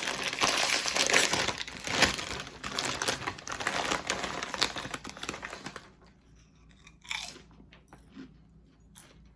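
Someone crunching and chewing barbecue potato chips close to the microphone, with dense crackling bites for about six seconds, after which the chewing turns much quieter.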